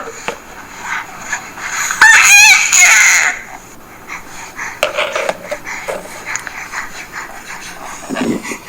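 Recorded baby vocal sounds played from a reborn-doll sound box: one loud, warbling baby squeal about two seconds in, lasting about a second, followed by only faint small sounds.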